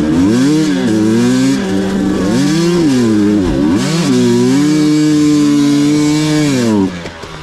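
Off-road vehicle engine under hard throttle on a hill climb, its revs swinging up and down repeatedly, then holding steady before dropping away shortly before the end.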